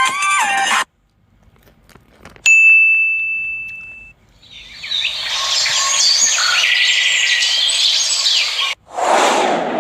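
A run of sound effects: a guitar music clip cuts off, then a single bright ding rings and fades over about a second and a half, followed by several seconds of dense high chirping that stops abruptly, and a rushing noise begins near the end.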